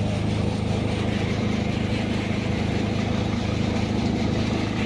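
Tractor engine running steadily at constant speed, driving a haramba paddy thresher.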